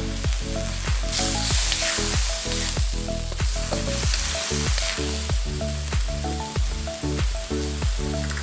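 Diced chicken sizzling as it fries in a carbon steel wok, stirred with a wooden spatula scraping the steel; the sizzle is loudest from about a second in until the middle. Background music with a steady beat plays under it.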